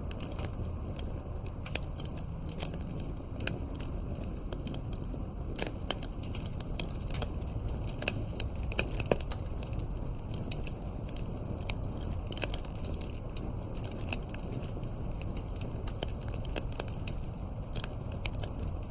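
Campfire crackling: irregular sharp pops and snaps of burning wood over a steady low rumble of the flames, with one louder pop about nine seconds in.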